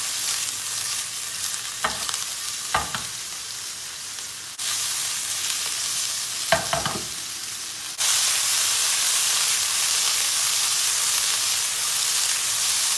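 Small beef meatballs sizzling as they fry in a little oil in a hot non-stick pan, with a few brief knocks as the pan is shaken to roll them. The sizzle grows louder about eight seconds in.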